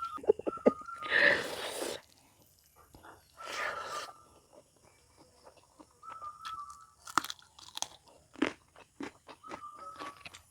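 Close-up crunching bites and chewing of crisp food, with irregular sharp crackles and two longer crunches in the first half.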